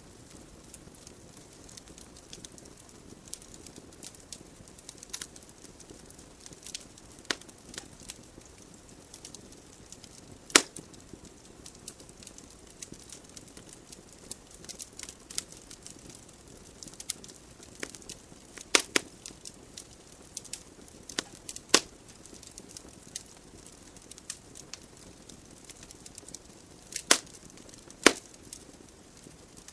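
Wood fire burning in a fireplace: a soft steady hiss of flames with irregular crackles and several sharper pops of burning logs.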